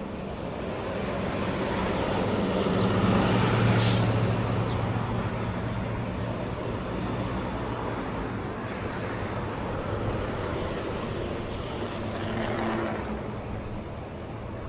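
Road traffic: a motor vehicle passing close by, its engine hum and tyre noise swelling to a peak about three to four seconds in and then fading, with a second, smaller pass near the end.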